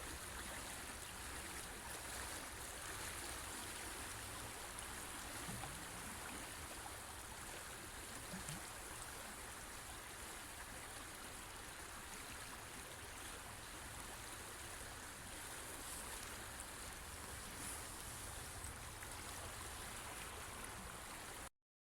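River water flowing steadily, a continuous rushing that stops abruptly near the end.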